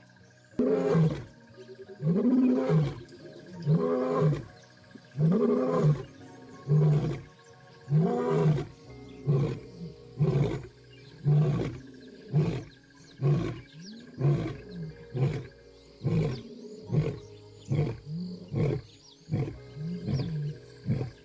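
Lion roaring a full bout: about six long, deep moaning roars, then a run of shorter grunts that come faster and fade toward the end.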